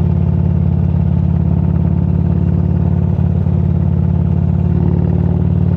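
Motorcycle engine running steadily at a constant cruising pitch.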